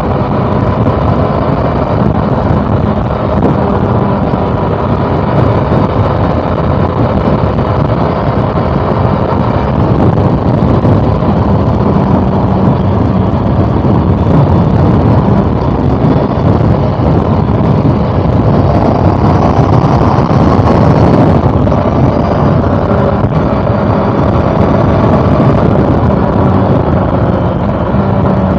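Inline-four engine of a 2013 Honda CB400 Super Four Revo Hyper VTEC motorcycle running steadily under way, its note rising in pitch about two-thirds of the way through.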